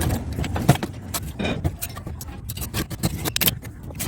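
Metal parts of a microwave magnetron clinking and scraping irregularly as it is worked apart by hand on a table.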